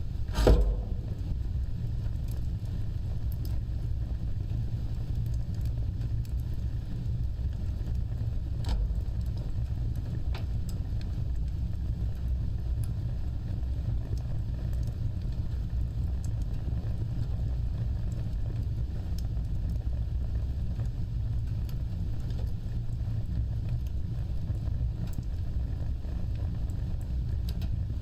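Wood fire burning: a steady low rumble of flames with a sharp crackling pop about half a second in, another near nine seconds, and scattered faint crackles.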